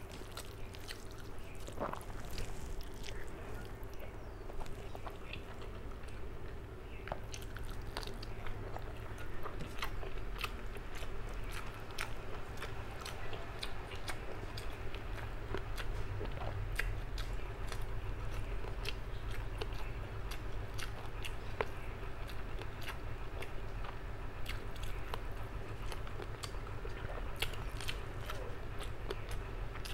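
Close-up chewing and mouth sounds of a person eating rice and fish curry by hand, with frequent small clicks and crunches, over a faint steady hum.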